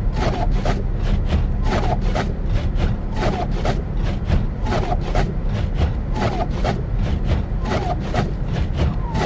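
Car driving on snowy city streets: a steady low rumble of engine and tyres, with a mid-pitched sound that recurs about every second and a half.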